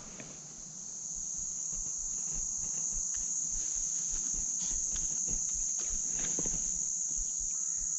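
A chorus of cicadas making a steady, high-pitched, unbroken drone, growing a little louder over the first couple of seconds.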